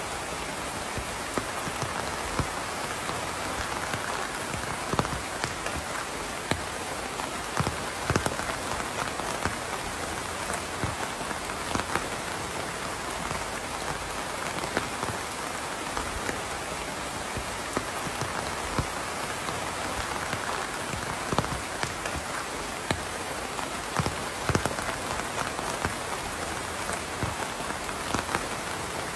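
Steady rain falling on a surface, an even hiss with many scattered individual drops ticking through it.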